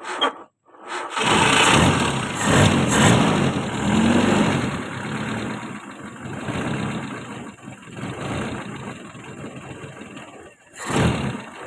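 Toyota 4K inline-four engine starting after a short crank, catching about a second in and running loudly for a few seconds, then dropping to a low, uneven idle. The mechanic takes the low idle as the engine's fault.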